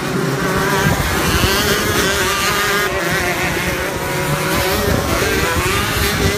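Two-stroke 125cc shifter kart engines running at racing speed, their pitch rising and falling with throttle and gear changes.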